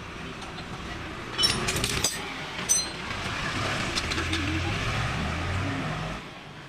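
Metal tools and engine parts clinking, a quick cluster of sharp ringing clinks about one and a half seconds in and another a moment later, over a steady low background rumble.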